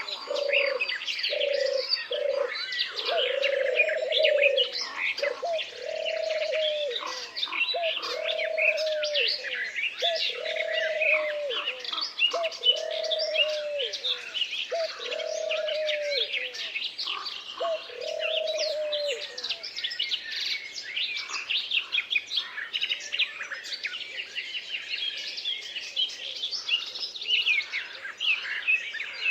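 A chorus of many songbirds chirping and trilling, with one lower cooing call repeated about every second and a half that stops about two-thirds of the way through.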